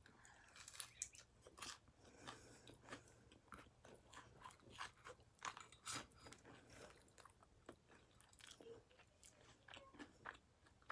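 Quiet close-up chewing of a bite of fried barramundi, with irregular short crunches and mouth clicks.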